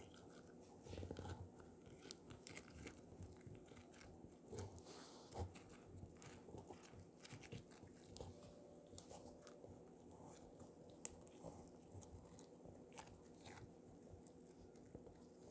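Slime being pressed and squished by hand, giving faint scattered sticky clicks and small crackling pops.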